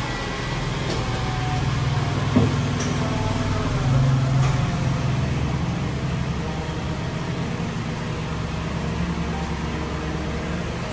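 Mitsubishi SUV's engine idling steadily just after starting, swelling briefly about four seconds in, with a single short knock a little before that.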